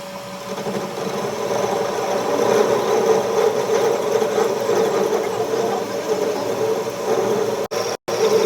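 A workshop machine's motor running steadily, a mechanical hum that builds over the first couple of seconds and then holds even, cut off for an instant near the end.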